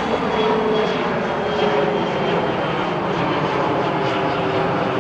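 Jet airliner engines running loud and steady, with a faint whine held over the noise.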